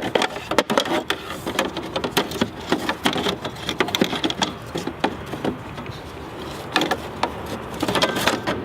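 Rapid, irregular clicking and knocking of plastic and metal parts as the stock manual shifter assembly is worked and slid out of its plastic base, with a cluster of louder knocks near the end.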